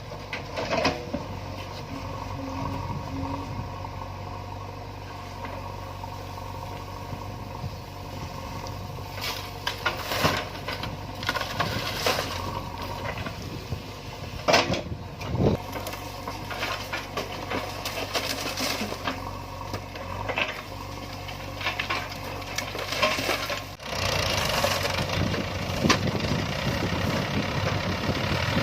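A diesel engine of a heavy farm or earth-moving machine runs steadily, with scattered knocks and clatters. About 24 seconds in it jumps to a louder, rougher engine noise.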